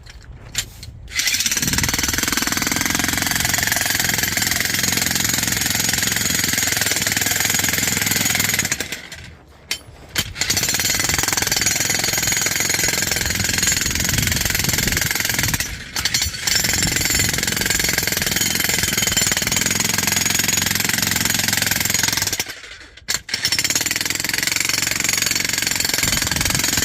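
Electric demolition hammer chiseling into hard, rocky ground: it runs in long steady bursts of rapid hammering, stopping briefly about 9 seconds in, again for a moment around 16 seconds, and once more about 23 seconds in.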